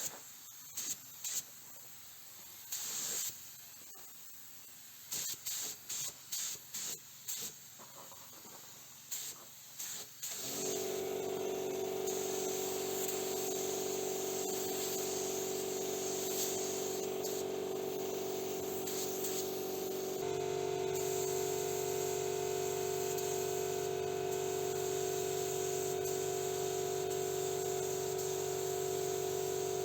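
Paint spray gun hissing in short trigger bursts, coating the inside of a car door, for about the first ten seconds. Then a steady machine hum with a held tone starts and runs on, stepping up a little about twenty seconds in.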